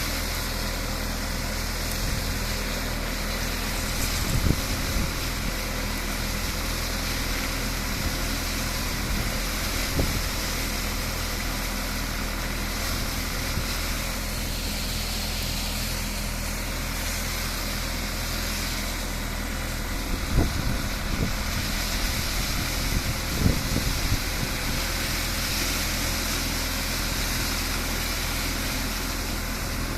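Tractor engine running steadily while working a tractor-mounted brush sweeper, with a few short knocks and clatters standing out now and then.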